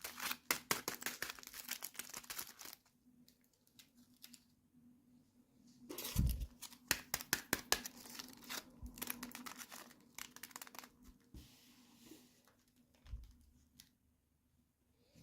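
Plastic toy packaging being crinkled and torn open by hand, in two bursts of crackling with a quiet pause between them. A faint steady hum sits underneath.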